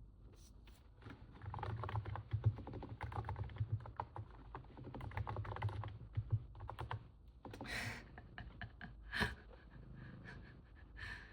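Typing on a NiZ 68 Pro capacitive keyboard, its muffled keystrokes likened to stepping on snow. A quick run of keystrokes starts about a second in and lasts some six seconds, followed by a few separate louder strokes.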